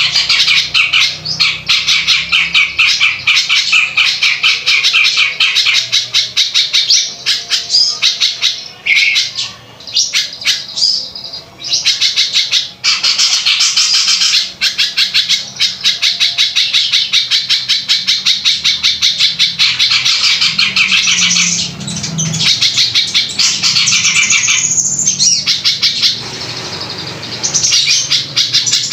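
A songbird singing a harsh, loud song of very rapid repeated notes, in long continuous runs broken by a few short pauses.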